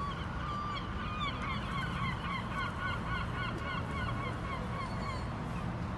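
Gulls calling, a rapid run of many short, overlapping calls that dies away about five seconds in, over a steady low rumble.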